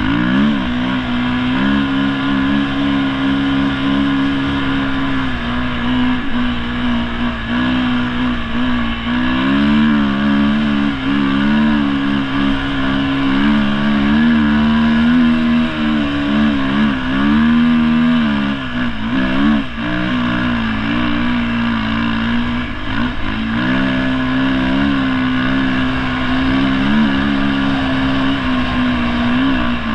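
Dirt bike engine running hard under load in snow, its pitch rising and falling with the throttle, with a brief drop-off a little past halfway.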